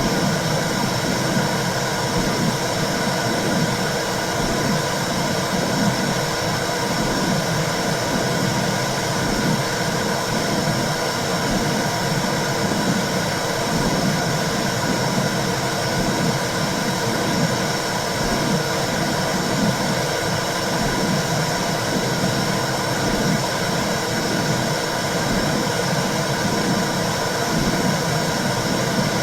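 Womb sound for soothing babies: a steady whooshing noise with a low pulse repeating about once a second.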